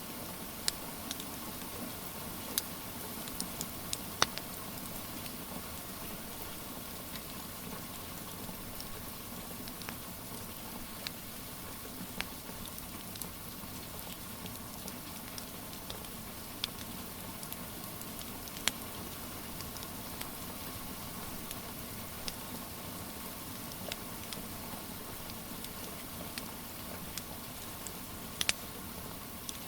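Steady rain hiss with a wood fire crackling over it: sharp, irregular pops every second or so, a few of them louder.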